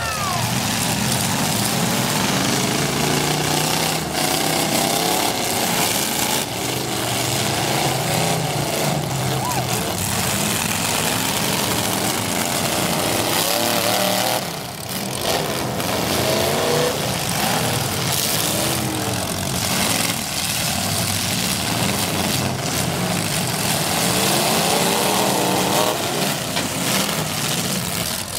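Several demolition derby cars' V8 engines running and revving, their pitch rising and falling over and over, with sharp bangs now and then.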